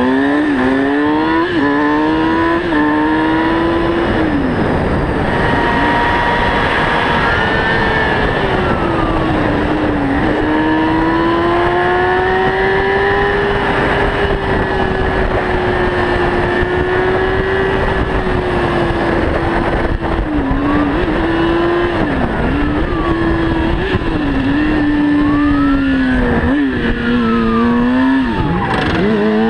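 Motorcycle engine running at speed, its pitch rising and dipping with throttle and gear changes and holding steady for long stretches; other vehicles sweep past a few times.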